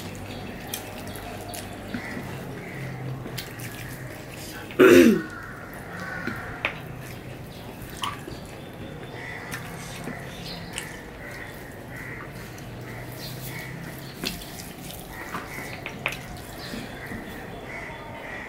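Close-up wet chewing and lip-smacking clicks of people eating rice and curry by hand. A brief, loud voice sound falls in pitch about five seconds in.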